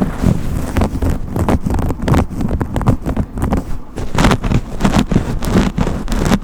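A brush being drawn over and over, rubbing and scraping in repeated, uneven strokes.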